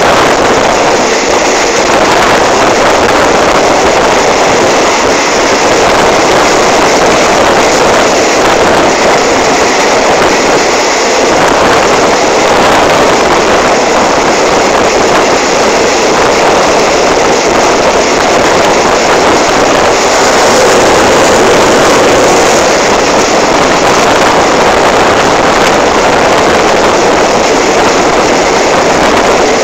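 Loud, steady rush of a passenger train running at speed, heard from an open coach window: wheel and track noise mixed with wind rushing past the microphone.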